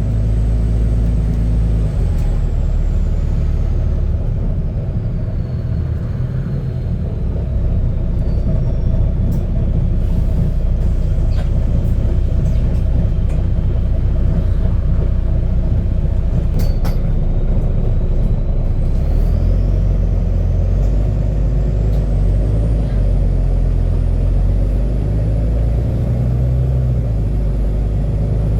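Heard from inside a double-decker bus: the engine rumbles continuously through a burst exhaust that runs loud. A high whine falls in pitch over the first few seconds and climbs again in the second half, and a few short clicks and rattles sound in the middle.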